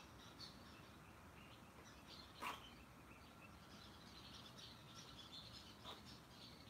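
Faint bird chirps over quiet room tone, with a light knock about two and a half seconds in and a smaller one near the end.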